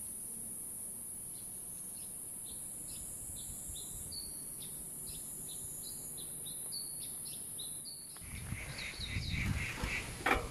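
A bird repeating short, high, falling chirps, about two a second, over a steady high hiss. About eight seconds in, a low rumble comes up under more chirping, and a sharp knock sounds near the end.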